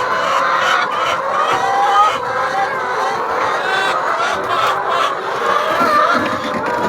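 A flock of chickens calling together, many overlapping calls in a steady, dense chorus.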